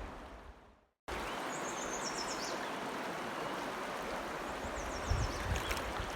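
Sound fades out to silence within the first second. Then comes a steady rush of flowing water, with a bird's high, stepped, descending trill twice, about a second in and again near the end.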